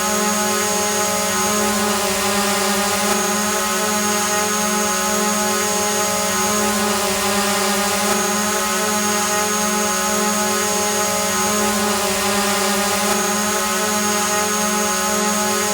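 Drone hovering: the motors and propellers give a steady, even buzzing hum with hiss, holding one pitch. A faint high whistle cuts out and comes back every few seconds.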